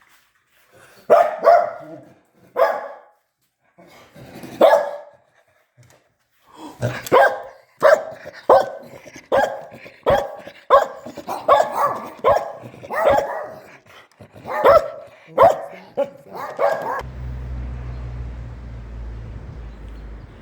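Dog barking repeatedly in short, separate barks, faster near the middle, that stop abruptly near the end and give way to a steady low rumble.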